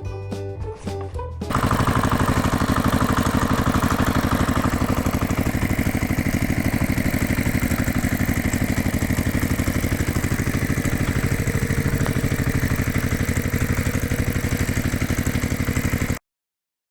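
Brief music, then an engine running with a fast, even chug, which cuts off suddenly near the end.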